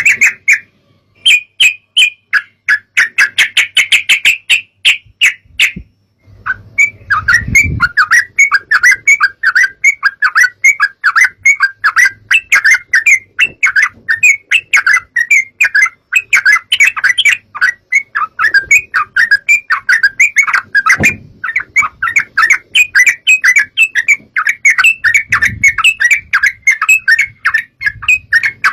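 Yellow-vented bulbul (trucukan) song: a rapid, continuous run of chirping notes, broken by a short pause about six seconds in.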